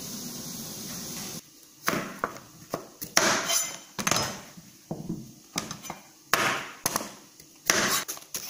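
Diced potatoes simmering in water in a frying pan, a steady bubbling hiss that stops abruptly about a second and a half in. Then a carrot is handled, trimmed and peeled on a plastic cutting board: about ten irregular sharp knocks and short scrapes of knife, peeler and carrot.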